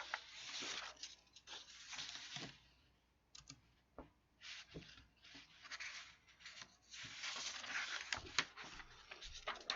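Faint rustling with scattered sharp clicks, quieter for a moment near the middle.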